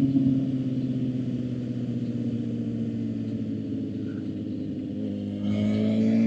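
Suzuki GSX-R750's inline-four engine running under way, its pitch easing slowly down, then getting louder and rising as the throttle opens about five and a half seconds in.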